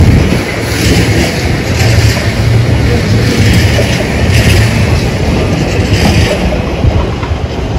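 A freight train of empty flat wagons rolling past: a steady low rumble of wheels on rail, with a clatter that repeats about once a second.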